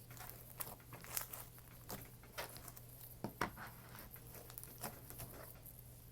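Faint, irregular crackles and small pops of a crunchy slime full of foam beads being squished and poked by hand.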